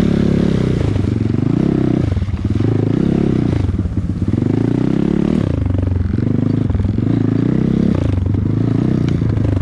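Off-road motorbike engine under riding load, its revs rising and falling in about six surges as the throttle is opened and closed, with some clatter from the ride over rough ground.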